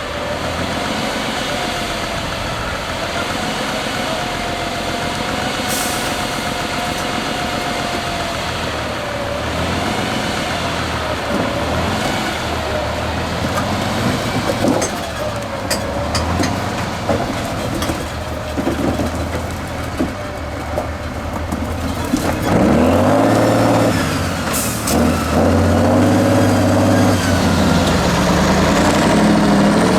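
Heavy off-road trial truck's diesel engine working, its revs rising and falling, with a couple of short hisses. It gets louder with harder revving about two-thirds of the way through.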